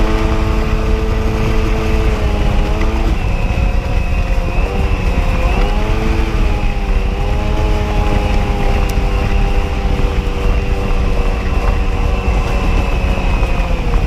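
Two-stroke engine of a 1994 Sea-Doo XP jet ski running under throttle: its pitch rises, drops about three seconds in, climbs again and holds steady, then eases near the end. A heavy low rush of wind and water runs underneath.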